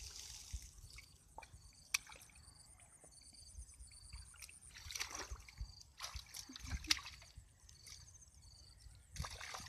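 Shallow water splashing and sloshing in short irregular bouts as fish are worked by hand in the water, with a few sharp clicks or slaps, the loudest a little before two seconds in and again near seven seconds.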